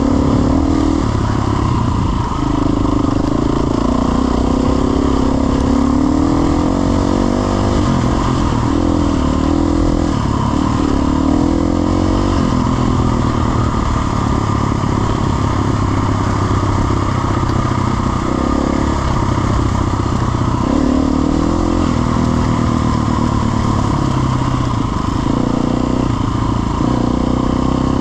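Off-road motorcycle engine running and revving, its pitch rising and falling again and again.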